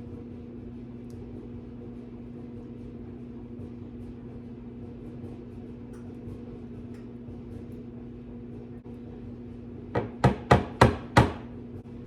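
Steady hum of a clothes dryer running, then near the end five quick, sharp knocks, like a spoon tapped against the edge of a dish.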